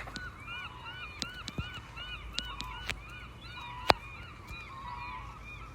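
A flock of waterbirds calling over and over, many overlapping honk-like calls several times a second. Scattered sharp clicks run through it, the loudest about four seconds in.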